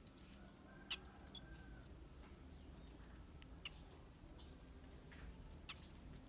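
Faint, scattered short high chips and clicks from sanhaço tanagers feeding from a hand, the sharpest one about a second in, over a low steady hum.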